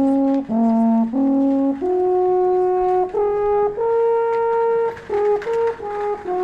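A brass horn playing a slow tune of long held notes, moving up and down in pitch with short breaks between some of them.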